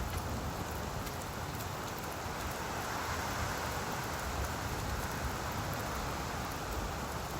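Steady rain falling on leaves: an even hiss with faint, scattered drop ticks.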